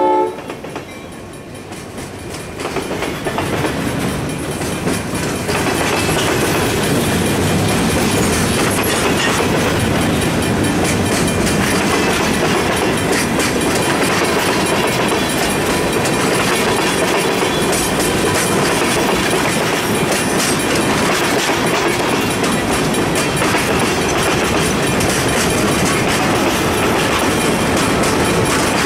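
Freight cars rolling past close by: a steady rumble of steel wheels with clickety-clack over the rail joints. It is quieter for the first few seconds, then holds loud and even as loaded hoppers, tank cars and boxcars go by.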